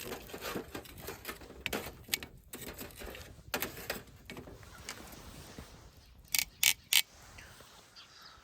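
Rustling and handling noises with many small clicks, then three sharp, loud clicks in quick succession about six seconds in, during an attempt to light a fire that is not catching.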